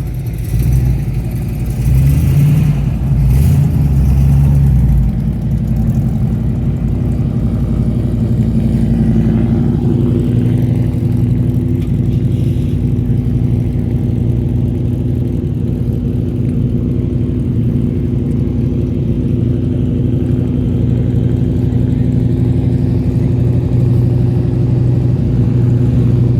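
A car engine running steadily, louder and rougher for a few seconds near the start, then settling into an even hum.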